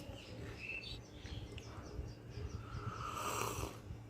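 Small birds chirping in a run of short, high repeated chirps, over a low steady background rumble, with a brief louder sound about three seconds in.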